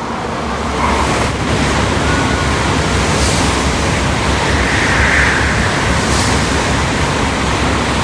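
Shinkansen bullet train rushing past a station platform at high speed: a loud, even rushing noise that builds over the first second, then holds steady.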